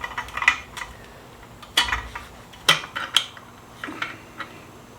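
Steel exhaust flanges clinking and scraping against a motorcycle exhaust pipe as they are moved from the old pipe onto the new one. A run of light metal clinks, with the sharpest ones about two and three seconds in.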